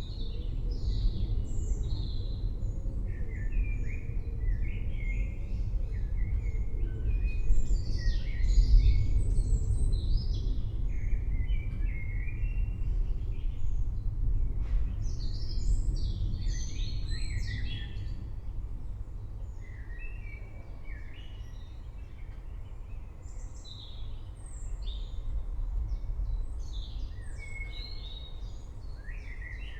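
Many birds chirping and trilling over a continuous low rumble of distant thunder. The rumble swells about eight seconds in, then eases off in the second half.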